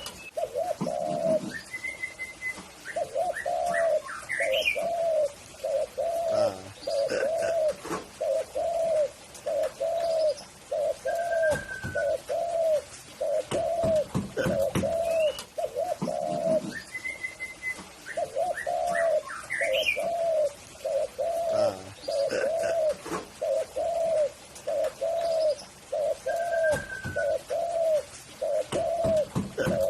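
Spotted dove (tekukur) cooing: a long run of evenly spaced low coos, about one and a half a second, in two phrases with a short break about halfway. Faint chirps of another small bird sound over it now and then.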